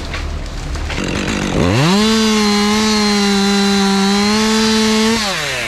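Two-stroke chainsaw revved up to full throttle about a second and a half in, held there for about three seconds with a slight sag in pitch, then let back down near the end.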